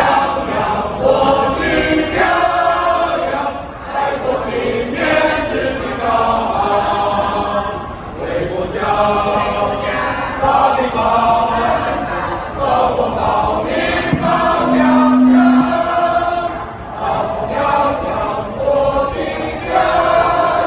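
A choir singing in phrases. About three-quarters of the way through, a short steady low note is held for about a second.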